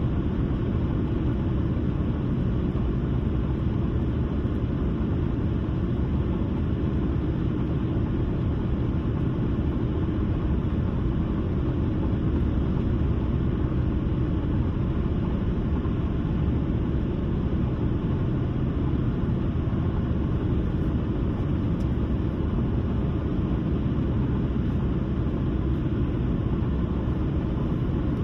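Steady road noise of a car at highway speed: a constant low rumble of tyres and engine with no change in level.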